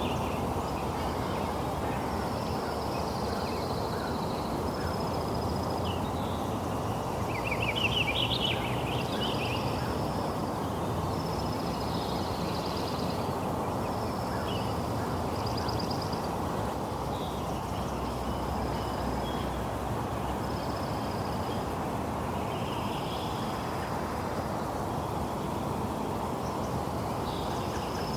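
Steady rain falling, with birds calling over it: a short high note repeats every couple of seconds, and a louder, rapid call comes about eight seconds in.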